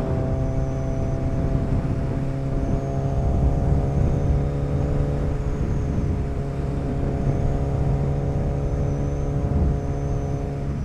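Motorcycle engine running at a steady cruising speed, its pitch holding even, over a low rumble of wind noise.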